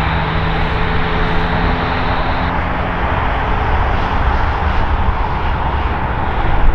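Jet engines of an Airbus A320neo-family airliner running, a steady rushing noise with a high whine that drops away about two and a half seconds in.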